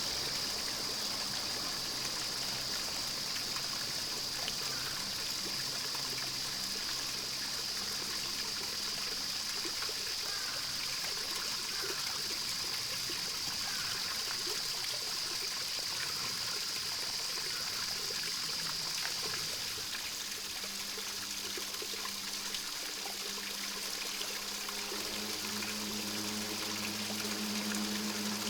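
Water trickling and flowing steadily, with a steady high-pitched hum above it.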